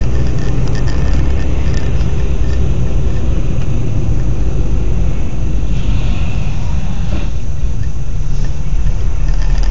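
A car driving, with a loud, steady low rumble of road and engine noise. There is no clear impact.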